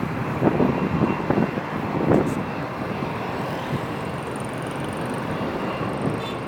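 Jet engine roar from a Boeing 777-300ER's GE90-115B turbofans as the airliner takes off and climbs away. There is crackling at first, then a steadier, slightly softer rumble.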